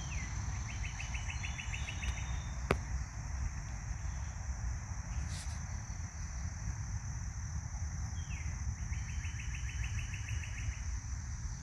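Outdoor nature ambience: a steady high-pitched insect buzz, with a songbird singing twice, each song a short downward slur followed by a rapid trill of evenly repeated notes. A single sharp click sounds close by a little under three seconds in, over a low rumble.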